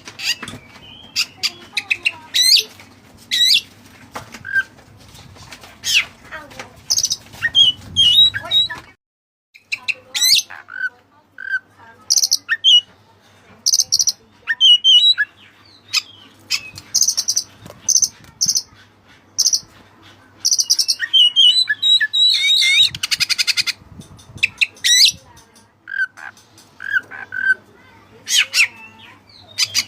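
Oriental magpie-robin (white-breasted kacer) singing a loud, varied song of sharp whistles, chirps and rapid trills, with a break of about a second a third of the way in. A faint steady low hum runs underneath.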